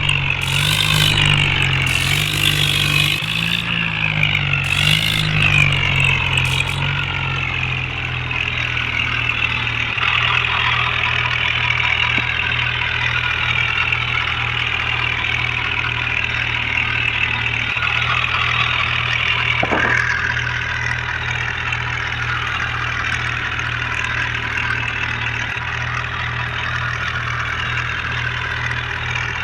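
Tractor engine running, its pitch wavering for the first several seconds and then holding steady at an even idle.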